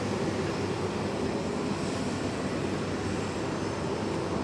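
Steady low rumble with hiss of outdoor ambient noise, even throughout with no distinct events.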